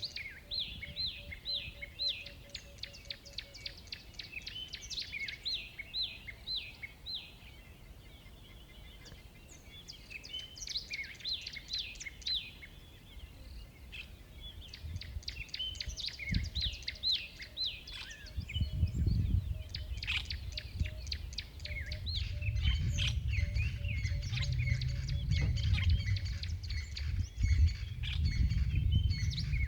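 Wild birds singing and chirping, many rapid high chirps repeated throughout. From about halfway a low rumbling noise builds underneath and grows louder toward the end.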